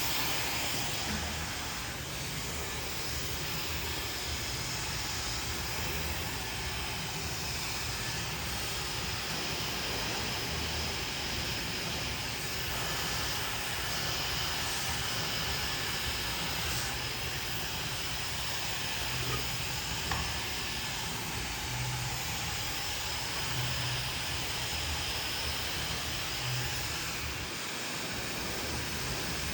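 Handheld hair dryer running steadily: a constant rushing hiss of air with a faint high whine.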